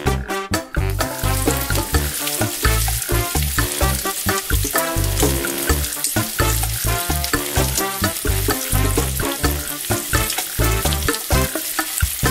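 Onion, bell peppers and sausage sizzling as they fry in melted butter in a pan, the hiss starting about a second in. Background music with a steady beat and bass is the loudest sound throughout.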